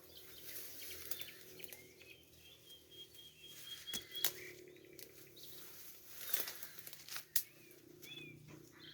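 Birds chirping faintly in short rising and falling calls, with one thin whistle held for about a second and a half. A few sharp clicks and rustles stand out, the loudest about four and seven seconds in.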